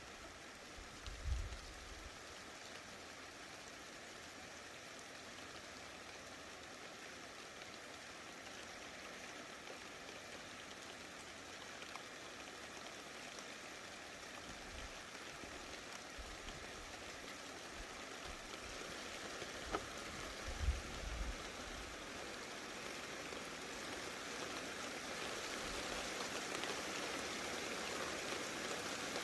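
Steady rain falling, growing gradually heavier. Two brief low thumps sound, one about a second in and one about twenty seconds in.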